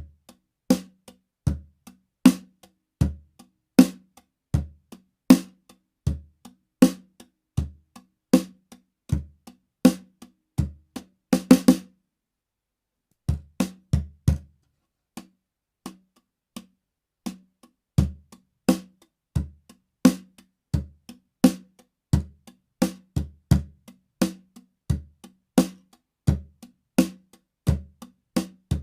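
Unprocessed drums played in a steady groove, low bass-drum hits alternating with higher, more ringing drum hits. Near the middle there is a quick fill, then a short break, and the groove starts again.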